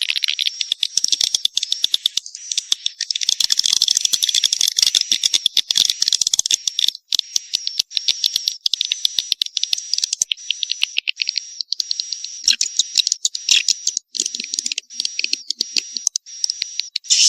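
Swiftlets calling: a loud, dense chatter of rapid clicks over a high, steady twittering, as on a courtship ('birahi') lure track played to draw swiftlets into a nesting house.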